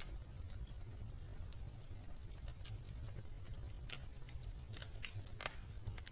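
Wood fire in a fireplace crackling: irregular sharp snaps and pops, a few louder ones, over a steady low rumble.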